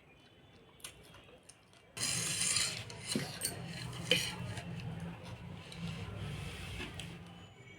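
Food being rubbed and scraped against a plate, starting suddenly about two seconds in and going on for about five seconds with a few sharper clinks, as curry and rice are mixed.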